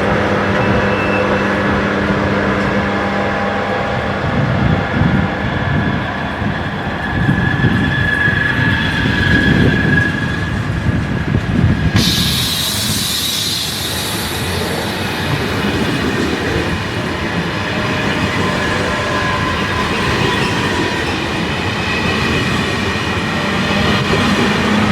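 TGV high-speed train running along the station tracks, with a steady rumble of wheels and several steady whining tones. About halfway a sharp, hissing high sound starts suddenly and slowly fades.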